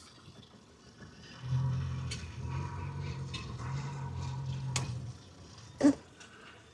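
A low, steady engine hum comes in about a second and a half in and stops about five seconds in. A few sharp knocks sound over it, the loudest near the end.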